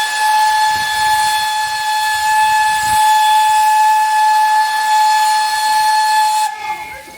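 Steam whistle of GWR Large Prairie tank locomotive No 4144 sounding one long, steady single-note blast with a hiss of steam. It cuts off suddenly about six and a half seconds in.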